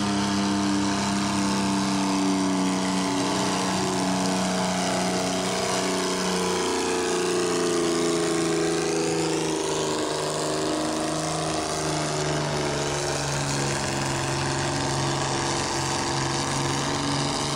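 Enhanced antique pulling tractor's engine working hard under load as it pulls the weight-transfer sled. Its pitch sags slowly as the engine is pulled down, then holds lower for the rest of the run.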